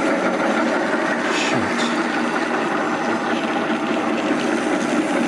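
Circular sawmill running steadily, its engine and drive making an even mechanical clatter, with a brief high-pitched squeak about a second and a half in.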